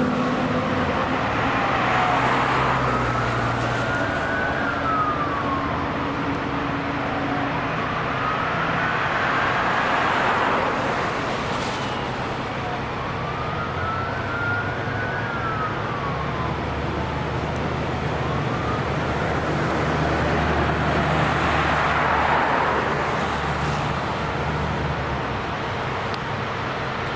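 Emergency vehicle siren in slow wail, its pitch rising and falling over several seconds each cycle, over the engine and road noise of a passing fire department vehicle.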